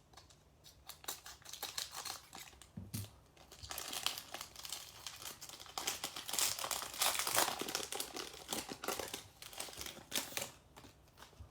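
Foil wrapper of a trading card pack crinkling and tearing as it is opened by hand, with a dense patch of crackling about halfway through.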